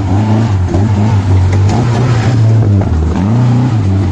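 Off-road 4x4 vehicle's engine revving loudly, its pitch rising and falling repeatedly, with a brief dip about three seconds in.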